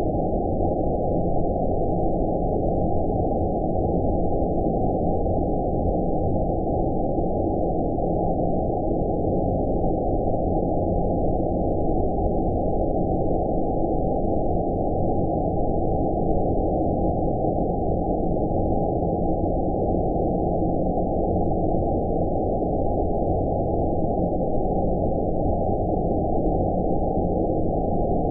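Steady, deep 'outer space' sleep-noise ambience: an even, unchanging noise with nothing above about 1 kHz.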